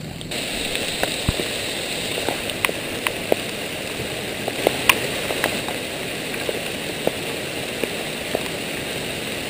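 Heavy rain falling through woodland: a steady hiss with scattered sharp ticks of drops striking close by.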